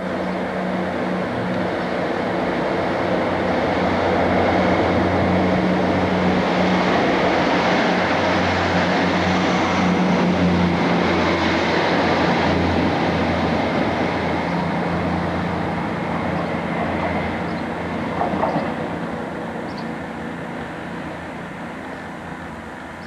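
A diesel train passing: its engine note and wheel noise swell over the first few seconds, stay loud through the middle, then fade steadily as it moves away. There is a brief sharp sound about three-quarters of the way through.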